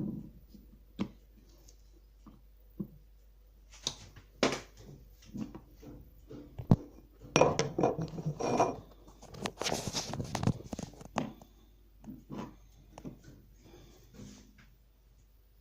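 Clicks, knocks and clinks of metal and crockery being handled while making espresso, scattered at first and then a busier run of clattering about halfway through. No grinder or pump is running.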